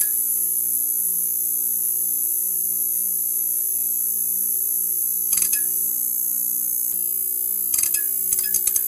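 Neon sign buzzing: a steady electrical hum under a high-pitched hiss, with short bursts of crackling about five seconds in and again near the end.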